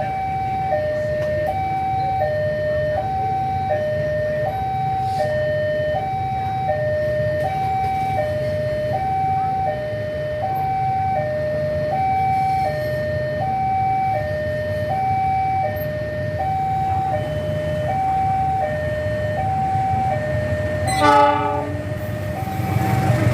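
Railway level-crossing warning alarm sounding its two-tone electronic signal, high and low alternating about every three-quarters of a second, which means a train is approaching. It runs over a steady low rumble, with a brief horn blast about 21 seconds in and a louder rushing noise building at the very end.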